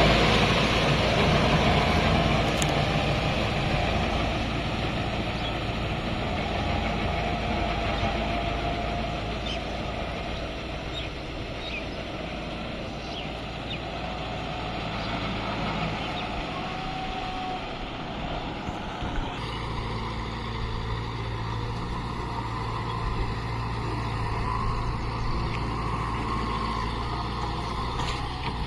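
Kubota MU5502 tractor's diesel engine running steadily, growing quieter over the first several seconds. The sound changes abruptly about two-thirds of the way through.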